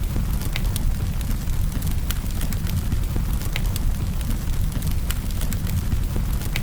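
Campfire crackling: a steady low rumble with frequent sharp pops and snaps of burning wood, several a second.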